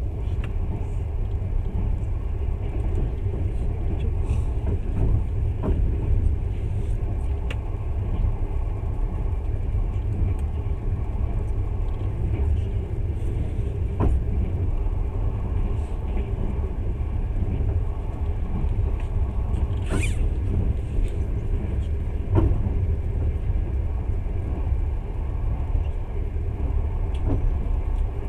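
A moving passenger train's steady running rumble, heard from inside the carriage, with a few scattered clicks and knocks from the wheels and car.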